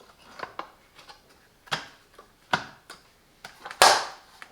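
Scattered short clicks and knocks of plastic parts being handled on a small cordless coffee machine, about six in all, the loudest and longest about four seconds in.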